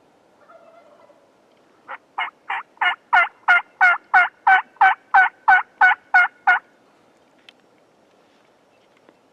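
A series of about fifteen turkey yelps, about three a second, growing louder over the first few notes and then holding level.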